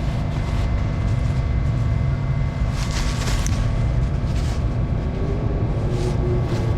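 A vehicle engine idling close by: a steady low rumble with a faint steady hum over it, and a brief hiss about three seconds in.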